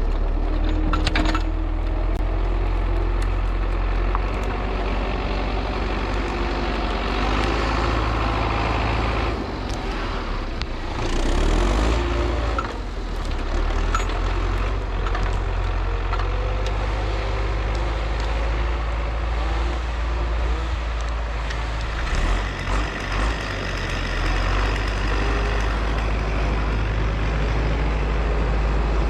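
Four-cylinder diesel engine of an MTZ-82 wheeled tractor running steadily. The engine note shifts briefly about ten seconds in.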